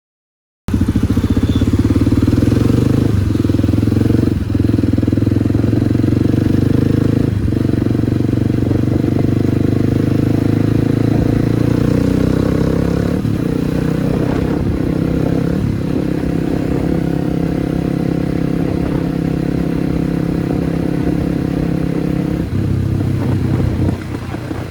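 Kawasaki D-Tracker 250 single-cylinder four-stroke engine with a White Brothers exhaust, running steadily while under way. The sound cuts in abruptly under a second in, after a short silence. There are a few brief dips in the first eight seconds, and the engine note drops near the end.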